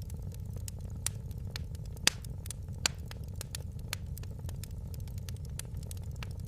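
Wood fire crackling: scattered sharp pops and snaps over a steady low rumble, with the loudest pops about two and three seconds in.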